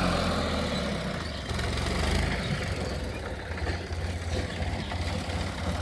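Tractor engine running steadily with a low, rapid chug.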